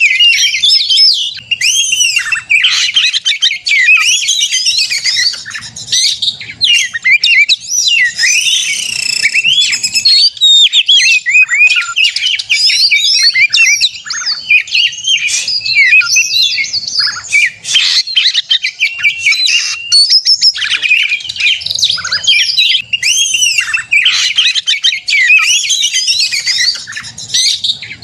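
Oriental magpie-robin (kacer) singing almost without pause in its aggressive, fighting-style song. It is a fast, varied run of high whistles, trills and chattering notes, broken only by brief gaps, and is the kind of song used to provoke other magpie-robins into answering.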